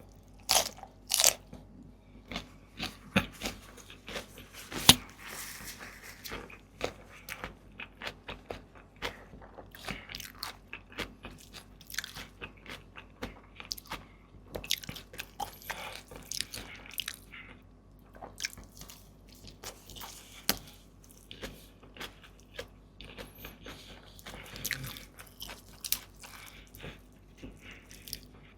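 Close-miked eating: irregular bites and chewing with many sharp, crunchy clicks, loudest near the start and about five seconds in.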